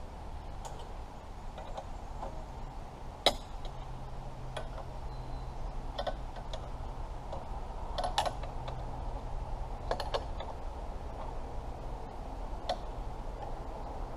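Scattered light knocks and clicks, about one every two seconds and the sharpest about three seconds in, over a faint steady low hum.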